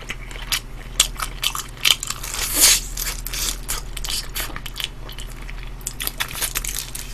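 Chewing and crunching of sauce-glazed kkanpung fried chicken, many short crackly bites, with a louder crunch about two and a half seconds in. A faint steady low hum lies underneath.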